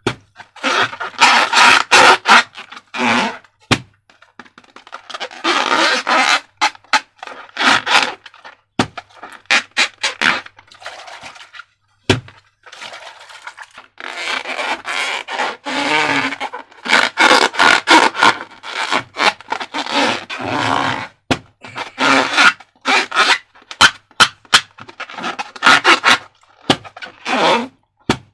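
Slime being worked by hand: sticky crackling and scraping in irregular strokes, some short clicks and some stretches lasting a second or two.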